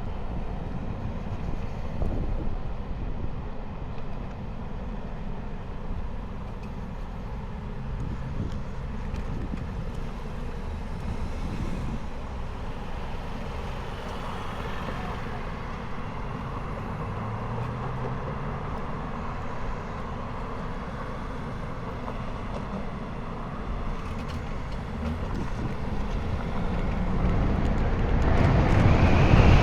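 Street traffic and road noise around a 96-volt electric motorcycle, whose own motor is barely heard; near the end a rush of wind on the microphone builds quickly as the bike gathers speed.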